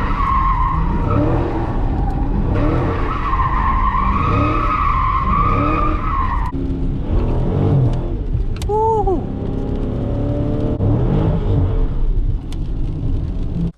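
Dodge Challenger's 6.4-litre 392 HEMI V8 running hard while the tyres squeal in a long, wavering squeal, as in a donut or burnout. The squeal cuts off about six and a half seconds in, and the engine keeps running, with a brief chirp a couple of seconds later.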